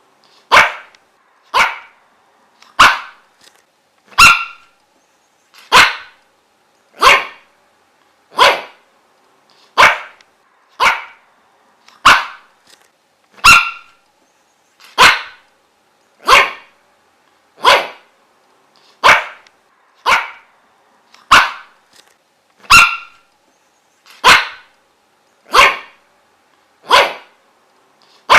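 A dog barking single short, sharp barks, one about every second and a quarter, in a steady unbroken run.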